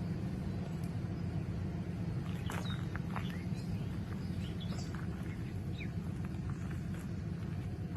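Short bird chirps and whistled calls, several close together a few seconds in, over a steady low outdoor rumble.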